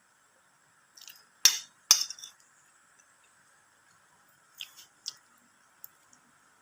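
Eating utensils clinking against dishware: two loud sharp clinks about a second and a half in, then a few lighter taps later on.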